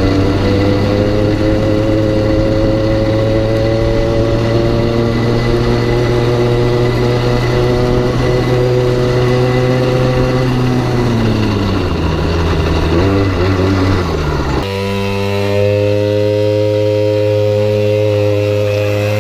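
Malaguti 40 cc two-stroke pit bike engine running at steady revs, the pitch creeping slightly up, then falling off and wavering about eleven seconds in. About fifteen seconds in the sound switches abruptly to another steady run.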